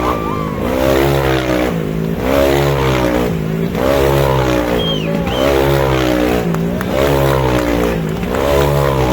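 Motorcycle engines running hard inside a globe-of-death steel sphere. The engine note rises and falls in a steady cycle a little more often than once a second as the riders loop around the globe.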